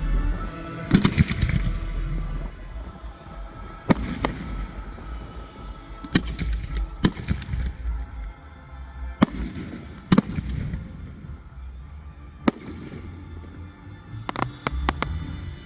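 Fireworks going off: about ten sharp bangs at uneven intervals, some trailing off in echo, with a quick cluster of three near the end, over music.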